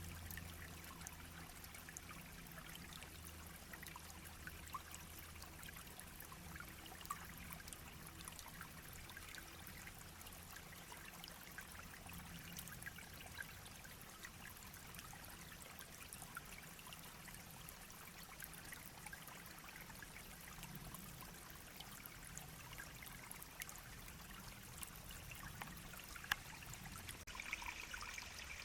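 A shallow babbling brook flowing steadily: a soft, faint rush of water with many small trickling splashes.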